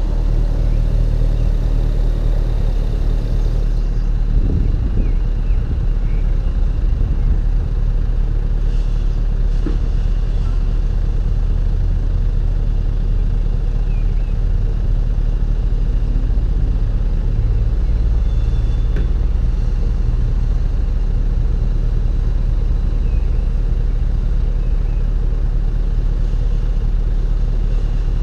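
BMW E39 540i's 4.4-litre V8 exhaust giving a steady low drone while the car cruises at constant speed, with no revving.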